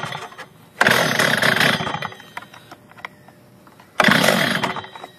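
Stihl TS400 two-stroke cutoff saw being pull-started cold on full choke. It gives short bursts about a second in and again about four seconds in, each dying away within about a second, as the engine fires briefly and stalls on choke.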